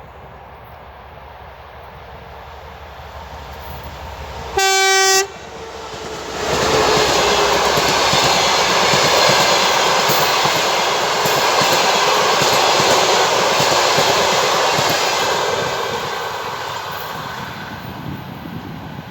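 TEP70 diesel locomotive approaching with a rising rumble, sounding one short horn blast about five seconds in. Then the locomotive and its passenger coaches pass close by with loud wheel and rail noise and clickety-clack, which fades near the end.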